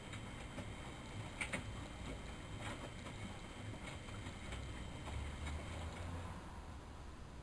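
Miele Novotronic washing machine drum turning during the wash, with a steady low rumble and faint clicks about once every second or so.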